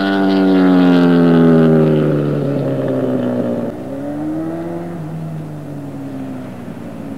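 Honda CBR900RR Fireblade's inline-four engine, loud at first with its note sliding slowly down for about three and a half seconds, then revving up briefly and falling away again, quieter.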